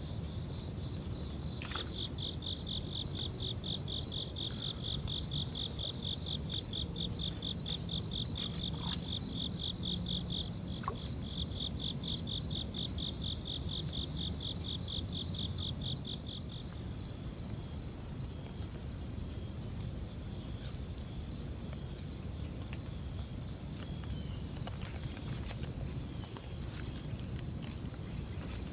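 Late-summer insect chorus: a fast-pulsing high trill over steady high-pitched buzzing from other insects. The pulsing trill pauses briefly before the middle, then stops a little past halfway while the steady buzzing carries on, over a low rumble.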